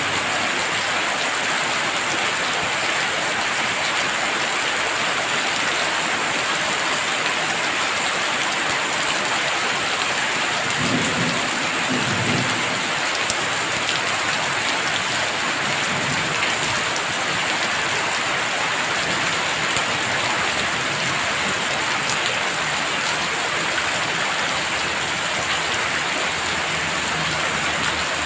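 Heavy rain falling steadily, with a brief low rumble of thunder about eleven seconds in.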